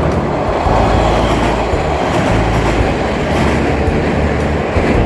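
A train passing close by on the adjacent railway line: a loud, steady rush of wheels on rails.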